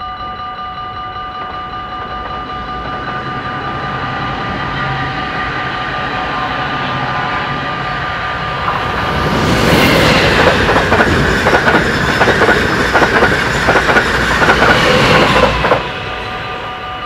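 Dutch level-crossing warning bells ringing steadily as a train approaches and passes, its wheels clattering over the rail joints for about six seconds before the train noise cuts off sharply near the end, the bells still ringing.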